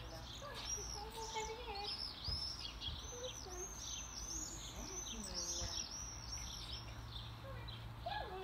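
A small bird singing nearby: a fast, busy run of high, arched chirps that starts about half a second in and stops about six and a half seconds in.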